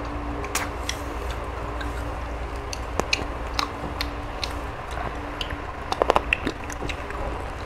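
Chewing and biting into chewy boiled chicken, with scattered small clicks and a short cluster of them about six seconds in, over a steady hum.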